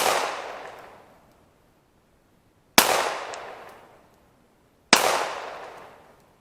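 Glock 19 9mm pistol fired three times, two to three seconds apart, each shot followed by a long echo dying away over about a second and a half.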